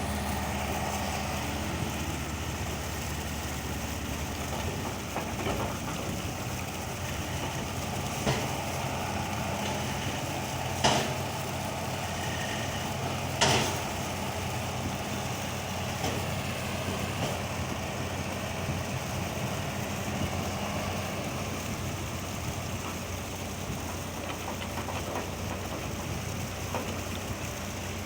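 Old Bedford truck's engine idling steadily, with a few sharp knocks partway through.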